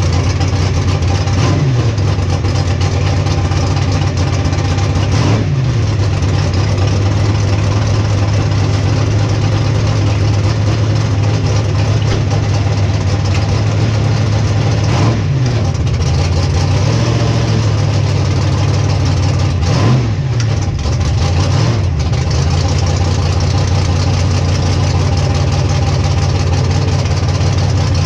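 Drag race car engine idling loudly and steadily, with a few short throttle blips that briefly swing the pitch.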